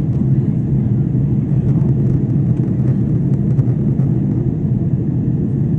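Steady low engine drone of an aircraft heard from inside the cabin, an even rumble with a constant hum underneath.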